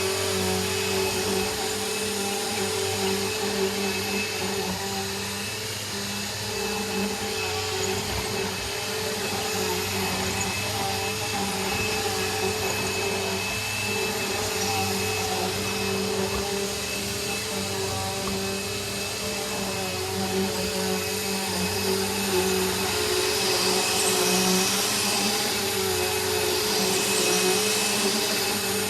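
Bissell Rewind SmartClean upright vacuum cleaner running steadily over a rug: a constant motor whine with rushing airflow, swelling and easing a little as it is pushed back and forth.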